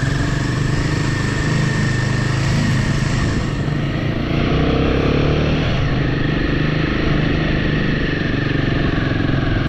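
Royal Enfield motorcycle engine running steadily, with a thin steady whine above it and a brief swell about halfway through.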